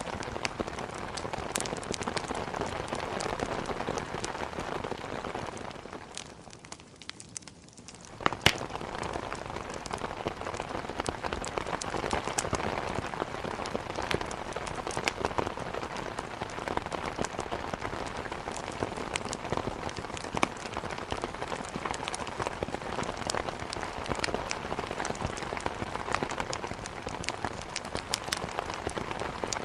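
Steady heavy rain mixed with scattered sharp crackles from a wood fire. The sound dips quieter for about two seconds around six seconds in, then returns with a loud pop about eight seconds in.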